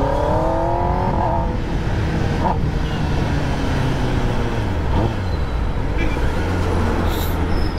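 Kawasaki ZX-10R inline-four through an aftermarket Leo Vince exhaust, revving up with its note rising for about a second and a half, then running steadily at a low drone while riding.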